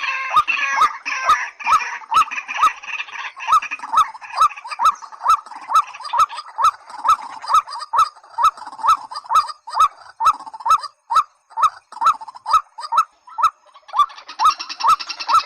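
Rail calls of the white-breasted waterhen and watercock kind: a steady series of short rising notes, a bit under three a second, with a regular sharp clicking throughout. A denser, harsher chorus of calls fills the first few seconds and comes back near the end.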